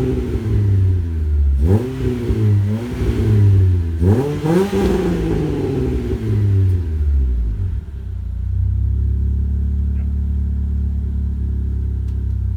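Renault Clio RS R27's 2.0-litre four-cylinder engine through a K-Tec exhaust, revved: the note falls from one rev, rises and falls twice more, then settles to a steady idle about eight seconds in.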